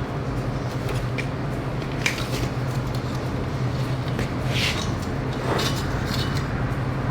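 Metal pipe and tools being handled on a steel table: a few light metallic clinks and knocks over a steady low hum.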